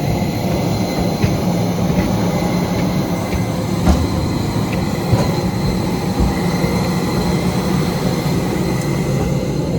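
Steady, loud rumble of a moving vehicle, with a faint steady whine and a few light knocks.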